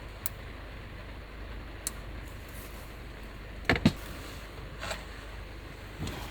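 Steady noise of a heavy rainstorm on a kei van, heard from inside the cabin, with a few light knocks and two louder knocks close together a little past the middle.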